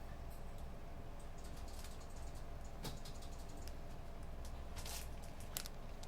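Computer keyboard typing in irregular, scattered keystrokes, some in short runs and a sharper single click near the end, over a low steady room hum.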